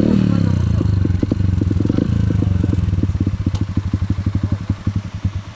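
Enduro motorcycle engine running at low revs with a brief blip of the throttle near the start, then settling to a slower, quieter, even idle after about three seconds.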